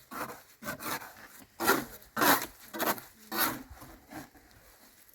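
Rough scraping or rubbing strokes, about seven of them at an uneven pace, dying away after about four seconds.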